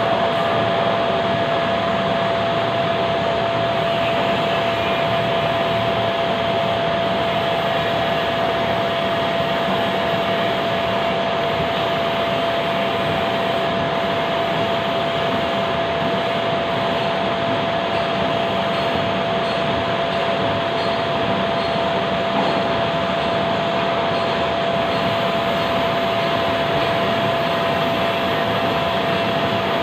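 Lathe running steadily: a constant whine over an even, dense machine noise.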